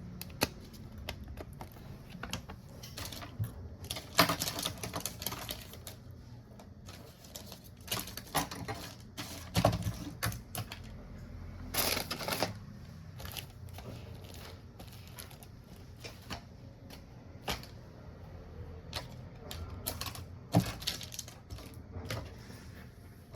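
Irregular light clicks and taps of a smartphone being handled and worked on during a screen repair, with a few short scrapes.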